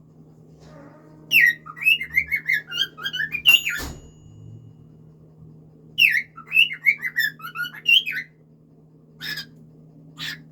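Cockatiel whistling its song: two warbling phrases of quick rising and falling notes, then two short chirps near the end, over a steady low hum.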